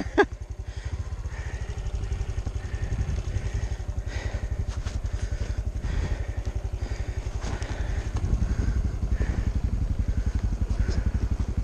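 Honda CT125's single-cylinder four-stroke engine idling with a steady, even pulse, after a sharp click just after the start.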